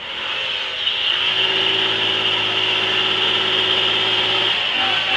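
A vehicle's engine running steadily with road noise, swelling over about the first second and then holding at an even pitch.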